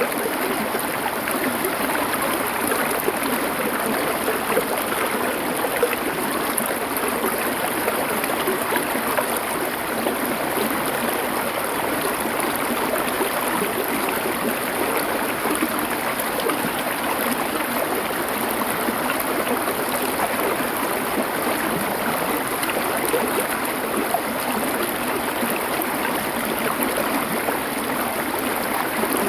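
Small river or stream flowing over stones, a steady rushing and gurgling of water without a break.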